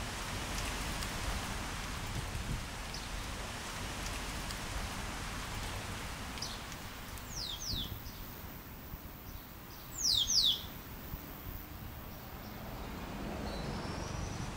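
Outdoor ambience: a steady rustling hiss with a bird calling over it. The bird gives a pair of quick, high falling whistles about seven and a half seconds in and a louder pair about ten seconds in, with a few short chirps before.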